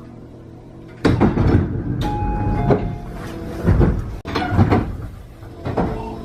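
Commuter train's sliding doors working at a station stop: about six loud rushing thumps over five seconds, starting about a second in, some with short chime-like tones.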